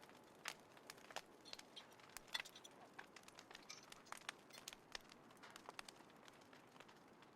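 Small wood fire crackling: irregular sharp snaps and pops, several a second and uneven in strength, over a faint hiss of burning.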